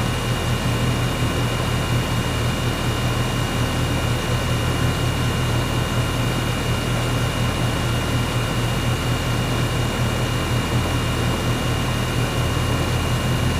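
Air conditioner running steadily: a strong low hum over an even rush of air, with a faint high steady whine.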